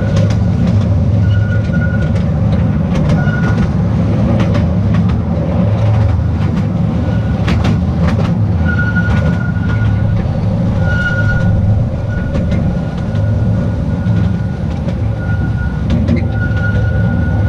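Small narrow-gauge tourist train running on the track: a steady rumble with irregular clicks and knocks, and short high wheel squeals that come and go, typical of wheels grinding through curves.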